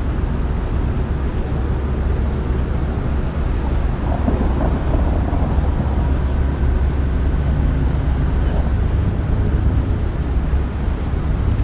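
Steady low rumble of city street noise, with traffic and wind buffeting the microphone.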